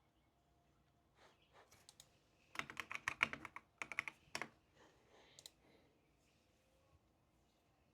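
A short run of typing on a computer keyboard: a few scattered key taps, then a quick flurry of keystrokes about two and a half seconds in that stops about two seconds later.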